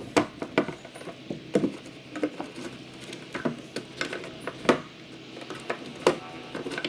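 Irregular clicks and knocks of hand work on an old wooden sash window as the old sash cord is pulled out.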